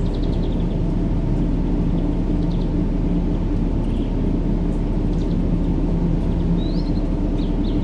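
Steady deep rumbling noise played as a baby-sleep sound, with a faint steady hum in it. A few faint high chirps come through, one rising chirp near the end.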